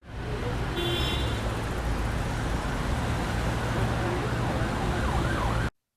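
Steady rushing noise with a deep rumble underneath and a few faint wavering tones, cutting off suddenly near the end.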